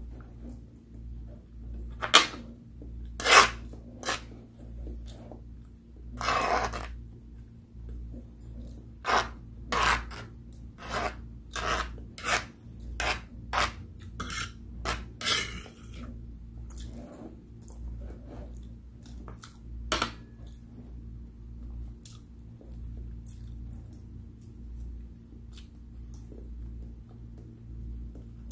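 Close-miked eating sounds: chewing and mouth smacks on boiled egg and instant pancit canton noodles, with a metal fork scraping and tapping on the tray. There is a run of short sharp sounds about one every half second through the middle, and it is quieter near the end.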